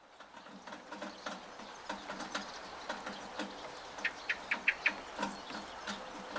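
Monsoon rain dripping and pattering from a gutter as dense irregular ticks over a steady rain hiss. A short run of about six quick chirps comes a little after four seconds in.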